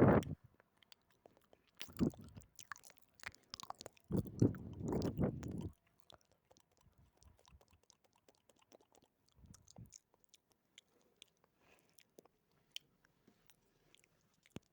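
Close-miked mouth sounds: scattered wet clicks and smacks, with louder bursts at the start, about two seconds in, and a longer one of about a second and a half around four to six seconds in.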